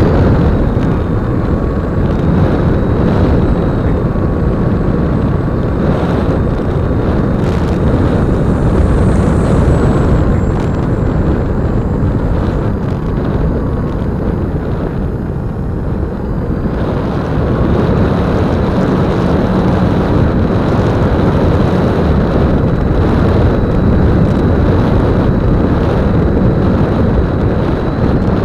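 Wind rushing over the on-board keychain camera's microphone on a flying E-flite Apprentice 15e RC airplane, with a thin steady high whine from its electric motor. The sound eases briefly about halfway through, then picks up again.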